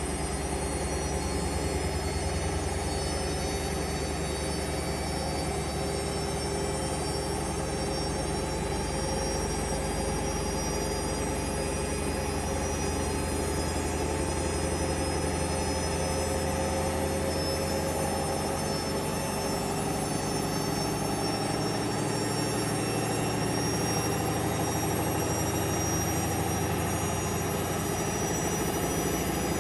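Hoover Vision Dynamic washing machine running its drum at speed: a steady motor hum with a high whine. The lowest part of the hum shifts about two-thirds of the way through.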